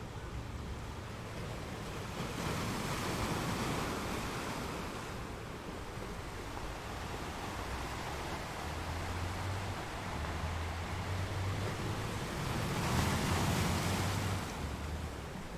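Sea surf: a steady rush of waves washing on a shore, swelling twice, about two seconds in and again near the end.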